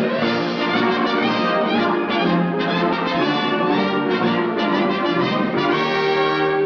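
Orchestral cartoon score with brass prominent, playing continuously.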